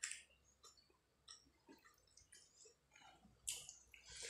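Faint wet mouth clicks and chewing of rice and fish curry eaten by hand, with a louder wet smack about three and a half seconds in as a handful of rice goes into the mouth.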